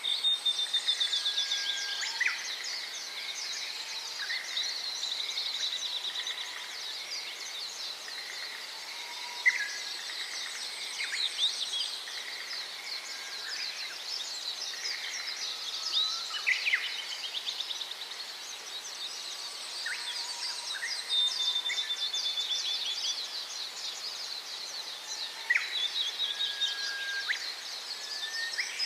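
A flock of small birds chirping and calling at once: a dense, overlapping chatter of high chirps, with scattered louder single calls and a few short trills.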